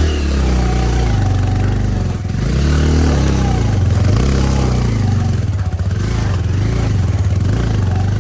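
Motorcycle engine running loud, its revs rising and falling again and again, with a steady hiss over it.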